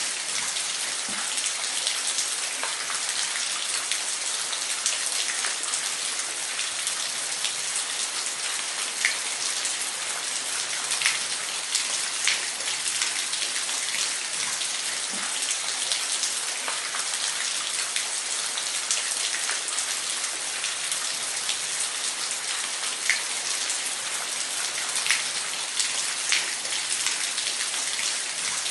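Waterfall: a steady hiss of falling, splashing water, sprinkled with short, sharper splashes.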